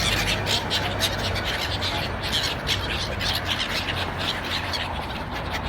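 A hungry bird calling for food, a rapid run of short, high calls at about four or five a second.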